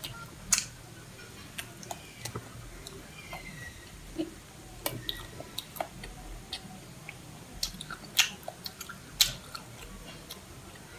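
Close-miked chewing of grilled cuttlefish: sharp, wet mouth clicks and smacks at irregular intervals, one loud one as the bite is taken and two more late on.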